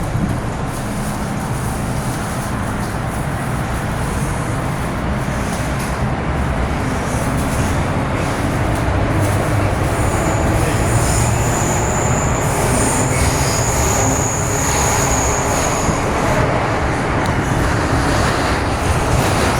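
MTR M-Train electric metro train running at speed through a tunnel, heard from inside the car: a steady rumble and rush of wheels on rail that grows a little louder. About halfway through, a high wheel squeal starts and lasts several seconds, typical of the wheels on a curve.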